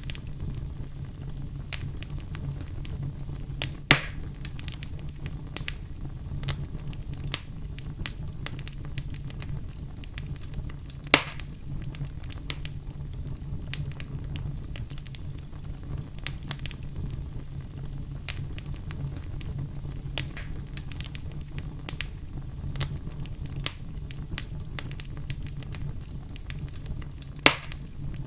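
Wood fire burning in a fireplace: a steady low rumble of flames with scattered crackles and three louder pops, about four seconds in, eleven seconds in and near the end.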